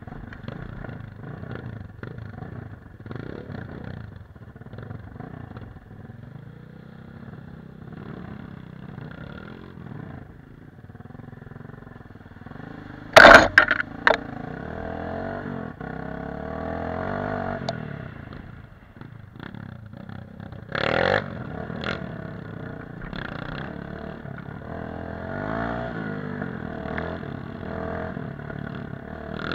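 Dirt-bike engine running and revving up and down as it is ridden, with a loud sudden bump about 13 seconds in and a smaller one about 21 seconds in.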